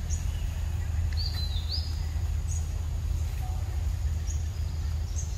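Wild birds chirping in short, high calls, a pair of stepped notes about a second in and single chirps scattered through, over a steady low rumble.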